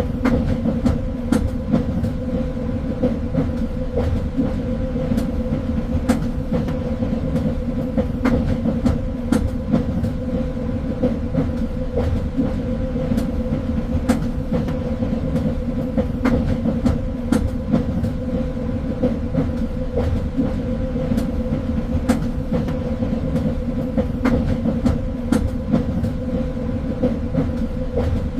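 Train running on the rails: a steady low rumble and hum, with irregular sharp clicks and clacks from the wheels on the track.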